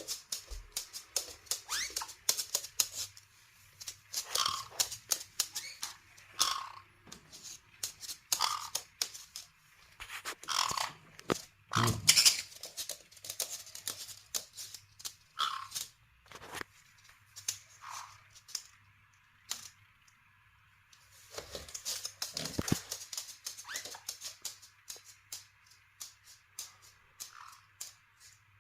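Caique parrots pecking and walking about: irregular small clicks and taps, with a short squeaky call every few seconds.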